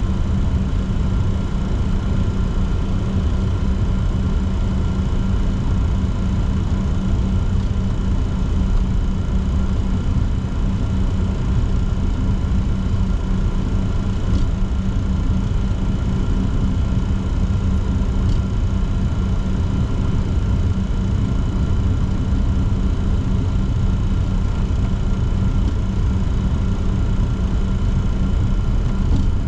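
Steady cockpit noise of a Bombardier Challenger 604 taxiing, its turbofan engines at idle: a low rumble under an even hum with a few fixed tones.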